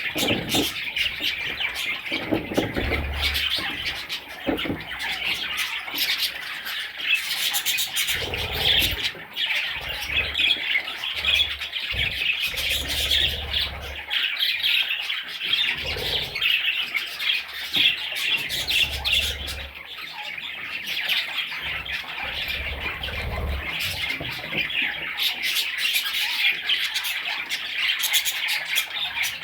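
Pet budgerigars chattering continuously, a dense mix of warbles and sharp calls.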